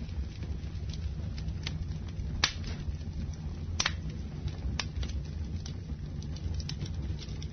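Campfire burning with a steady low rumble of flames and scattered sharp crackles and pops of burning wood, the loudest two about two and a half and four seconds in.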